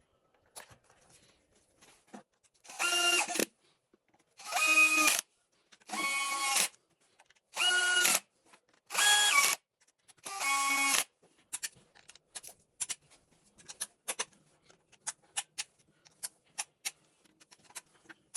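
A power tool run in six short bursts, each a whirring tone that shifts pitch partway through. After that come scattered sharp clicks, like tools or parts being handled.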